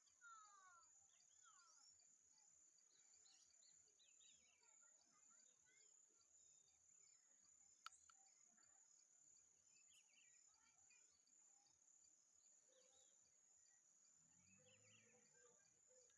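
Faint nature ambience: a steady high insect drone, like crickets, with scattered short bird chirps and whistles, and a sharp click about eight seconds in.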